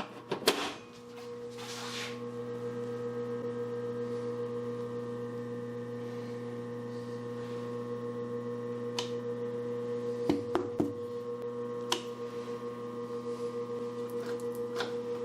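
A switch is thrown with a click, and a 440-volt buck-boost transformer comes up to a steady electrical hum that builds over the first couple of seconds and then holds. A few sharp knocks come near the middle.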